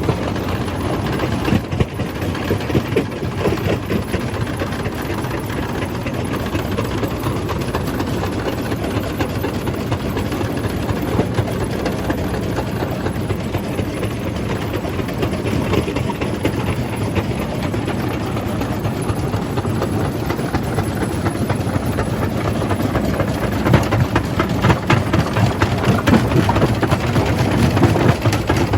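Jaw crusher running with rock in it: a dense, continuous clatter of stone being crushed over the machine's low drone, growing somewhat louder near the end.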